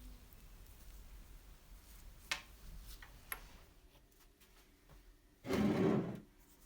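Workshop handling noises from restoring an old oil lamp: two light clicks, then a louder noise lasting under a second about five and a half seconds in.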